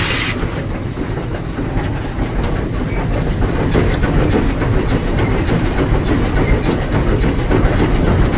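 Heisler geared steam locomotive running, heard from the cab: a loud steam hiss cuts off about half a second in, leaving a steady rumble of the engine and cars with faint clicking of wheels over rail joints.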